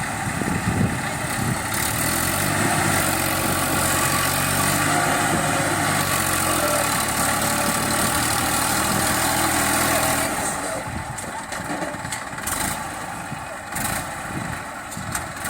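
Diesel tractor engine running steadily, then dropping off and turning quieter and rougher about ten seconds in.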